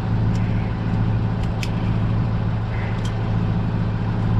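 Steady low mechanical drone, like an engine or motor running at an even idle, with a few faint ticks over it.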